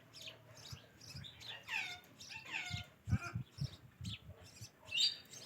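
Ringneck parakeet chirping, with several falling whistled calls in the middle and a sharp, loud call near the end; short low thumps sound underneath in the second half.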